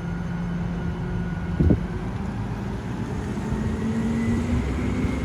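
Mack LR garbage truck running with a steady engine tone. A short knock comes about a third of the way in, and the engine pitch steps up slightly a little past halfway.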